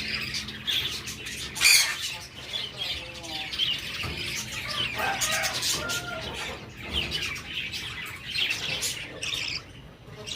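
Baby budgerigar chicks giving repeated high chirps and squawks, the begging calls of chicks being hand-fed with a syringe of formula. A short loud bump comes just under two seconds in.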